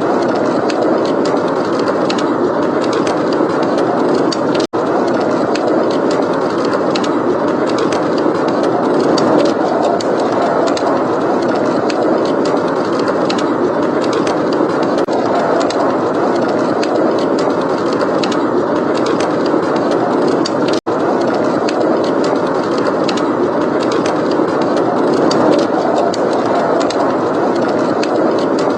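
Steady blizzard wind blowing hard, with a fireplace crackling in small scattered pops over it. The sound drops out for an instant twice.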